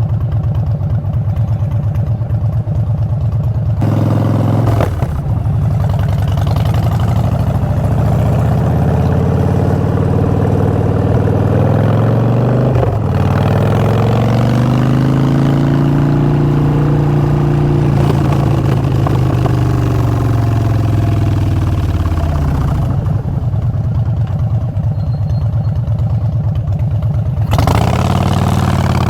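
Harley-Davidson Street Bob V-twin engine through Vance & Hines Short Shots exhaust, riding. It pulls from low revs about four seconds in, shifts gear with a brief break in the sound around thirteen seconds, rises and then falls as it slows, settles to a quieter low-rev running in the last few seconds, and is opened up again near the end.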